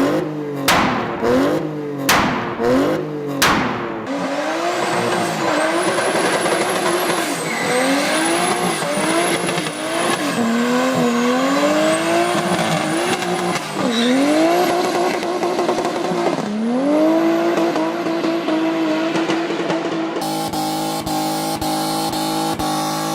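BMW E30 M3's four-cylinder engine revved in quick sharp blips, then held at high revs that rise and fall during a burnout, with tyre squeal. Music with a steady beat takes over near the end.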